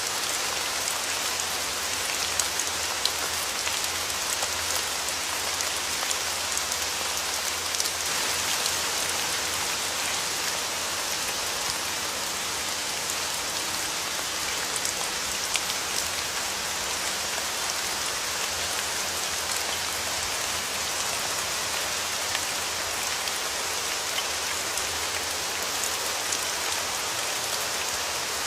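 Steady rain falling on a surface, a dense patter of many small drop impacts, with a few louder single drops now and then.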